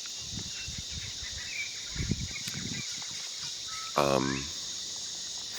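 Steady high-pitched chorus of insects such as crickets, with a few soft low thumps around two seconds in and a short voiced sound from the person about four seconds in.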